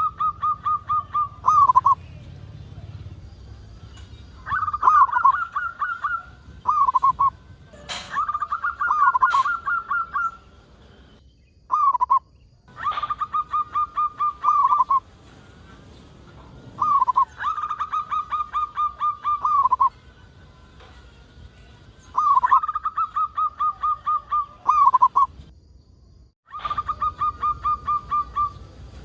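Local-type zebra dove (perkutut) cooing: about eight phrases of rapid staccato coos, each a couple of seconds long, with pauses between. A few sharp clicks come about a third of the way in.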